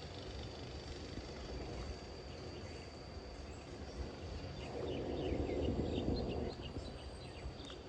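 Lakeside outdoor ambience: a low steady rumble of distant road traffic under a steady high insect drone. The traffic noise swells for a couple of seconds about halfway through, while birds chirp briefly in the second half.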